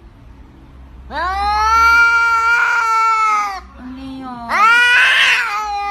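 Angry domestic cat yowling: a long drawn-out yowl, a short low call, then another loud yowl that turns harsh in the middle.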